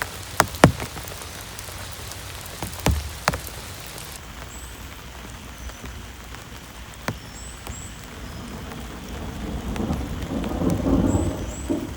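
Steady heavy rain, with a few loud, sharp drop impacts close by in the first few seconds. About nine seconds in, a low thunder rumble swells and then eases near the end.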